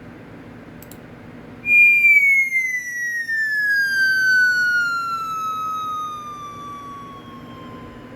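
A person whistling one long note that starts loud about two seconds in and slides slowly and smoothly down in pitch for about six seconds, fading as it falls.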